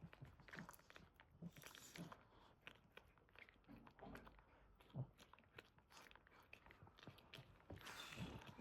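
Faint wet mouth sounds, a scatter of small clicks and smacks with a couple of brief soft rustles, from a Boston terrier mother and her newborn puppies.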